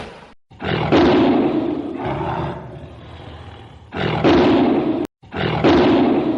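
Big cat roaring: three drawn-out roars, each loudest at its onset and trailing off, with brief dead-silent breaks between them.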